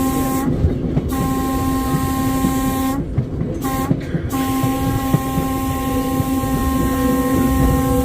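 Trolley car's horn sounding the grade-crossing signal, long, long, short, then a long blast held, one steady note, over the rumble of the car running on the rails.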